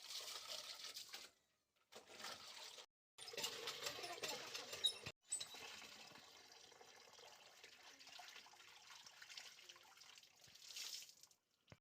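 Laundry being washed by hand: faint splashing of water and wet clothes, breaking off completely several times for a moment.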